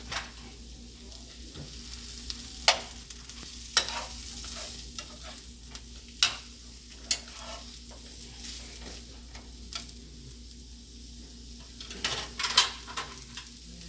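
Sliced mushrooms sizzling in oil in a frying pan, with a steady hiss. A utensil clicks against the pan now and then as they are stirred, several times in quick succession near the end.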